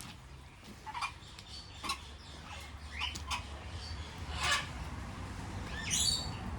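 Parrots giving short, sharp squawks and calls, about six separate calls spread over several seconds.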